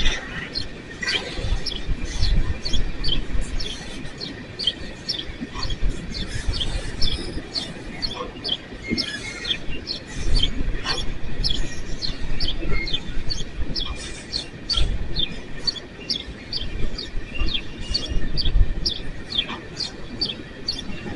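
Empty coal train's cars rolling slowly past with an uneven low rumble, over a steady run of short, high ticks, about three a second, that last the whole stretch.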